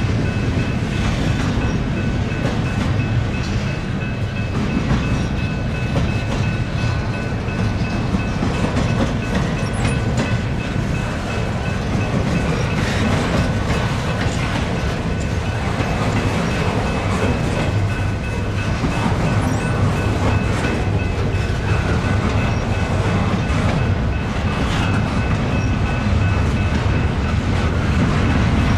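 Norfolk Southern intermodal train's freight cars rolling past steadily, a continuous heavy rumble with wheels clicking over the rail joints. A faint steady high whine runs underneath.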